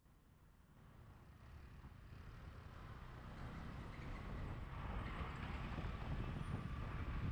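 Road and traffic noise recorded on a GoPro while riding through city traffic, a steady low rumble that fades in from silence and grows louder over the first few seconds.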